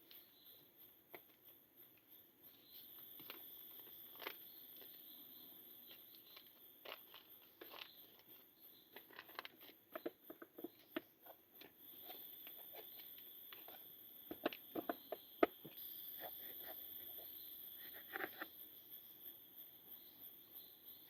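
Camp cooking preparation: irregular crinkling, tearing and light clicks of food packaging and utensils being handled, busiest in the middle stretch. Behind it, forest insects keep up a steady high chirring.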